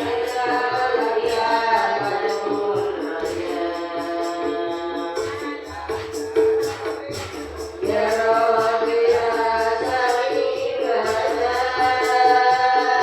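A group of voices singing a sholawat melody together in long held lines, over a steady beat of frame drums. The singing thins briefly in the middle, then the voices come back in fuller.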